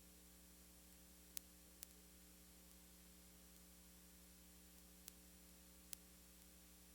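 Near silence: a faint steady electrical hum under light hiss, with a few faint clicks.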